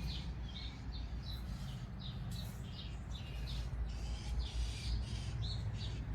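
Songbirds chirping, a quick run of short high chirps several times a second, over a steady low rumble.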